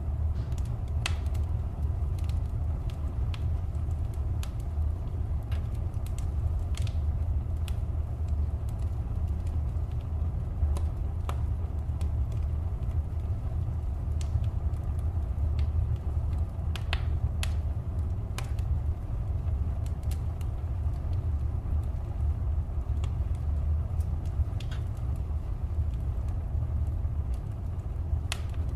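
Fire crackling in a fireplace: scattered, irregular sharp pops over a steady low rumble.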